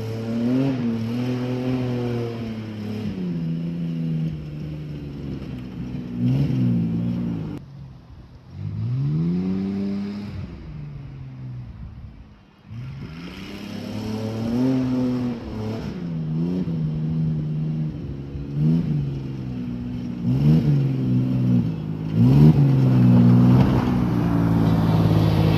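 Beater pickup truck's engine revving up and down over and over under hard driving, sounding loud and raw through a half-removed, leaking exhaust. It is running rough with a misfire. The revs drop off twice and climb higher near the end.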